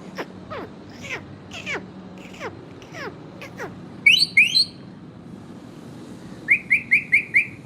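Indian ringneck parakeet calling: a run of falling whistle-like notes, then two loud, harsh squawks about four seconds in and a quick burst of five short shrieks near the end.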